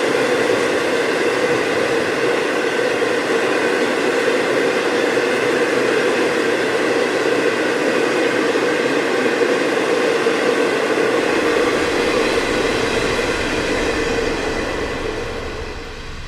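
Loaded taconite ore cars of a freight train rolling past, a steady rolling noise with several held tones from the wheels, fading away over the last couple of seconds.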